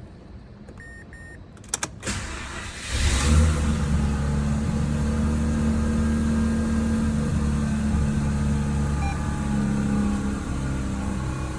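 Mazda RX-8's two-rotor Renesis rotary engine being started: two short beeps about a second in, a couple of clicks, the starter cranking briefly, then the engine catches with a quick rise in revs about three seconds in and settles into a steady idle.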